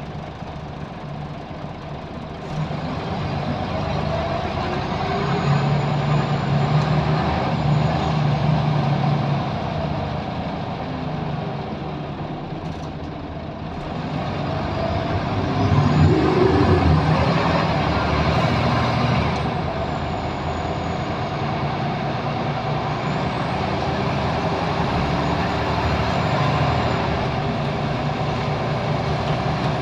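Scania L94UB bus engine running under load, growing louder about two seconds in and again midway as the bus pulls away, with a faint high whine that rises in pitch.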